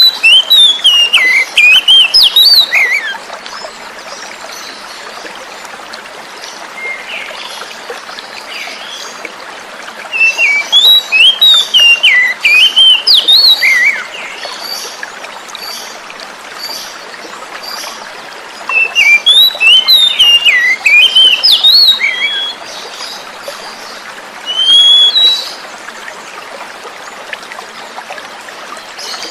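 Oriental magpie-robin (kacer) singing in bouts of quick, swooping notes that rise and fall: three long bouts and a short phrase near the end. Running water flows steadily underneath.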